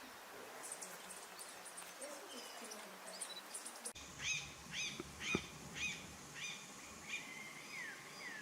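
Forest birds calling: faint high chirps, then after an abrupt change a bird gives a series of about seven short, clear repeated calls, roughly two a second, the last couple sliding down in pitch.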